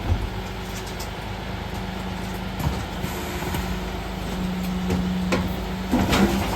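Mercedes Econic refuse truck running with a steady hum, broken by a few sharp knocks and a louder clatter of knocks near the end.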